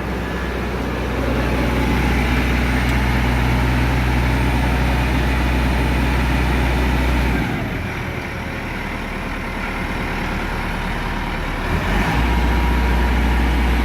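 Massey Ferguson 375 tractor's four-cylinder diesel engine running steadily at raised revs; its note drops about halfway through and picks back up near the end.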